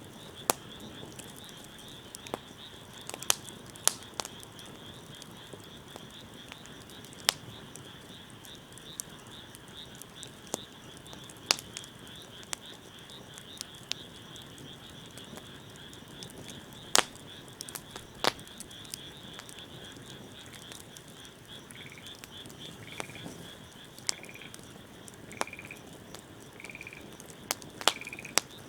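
Wood fire crackling, with sharp irregular pops and snaps, over a steady high-pitched trilling chorus. From about two-thirds of the way through, a short high call repeats roughly once a second.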